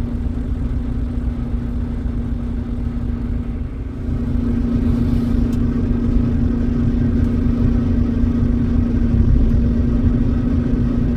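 Steady engine and road drone of a truck heard from inside the cab, with one held engine tone; it grows a little louder about four seconds in.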